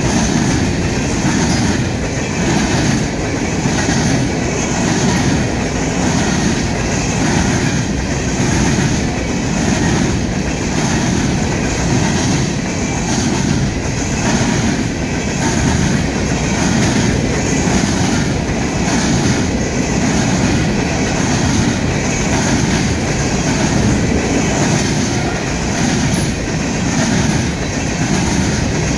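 Freight train of coal hopper cars rolling past close by: steel wheels on steel rail give a loud, steady rumble with a regular clickety-clack beat of wheels over the rail joints, about once a second.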